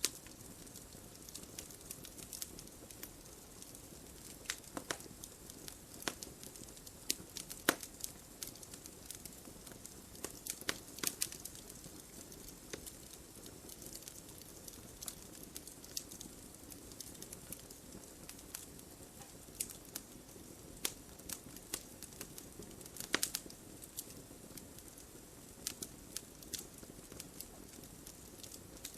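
Wood fire crackling in a fireplace: irregular sharp pops and snaps over a soft, steady hiss of burning. A few louder pops stand out, about eight seconds in and again past the twenty-second mark.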